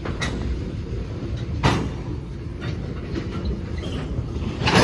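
Freight train backing up slowly during switching: a steady low rumble of the locomotive and rolling cars, with two sharp knocks, one about two seconds in and a louder one near the end.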